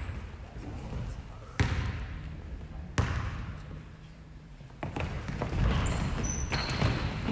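A basketball bouncing on a gym floor: three separate bangs a second or two apart, over a murmur of voices that grows louder near the end.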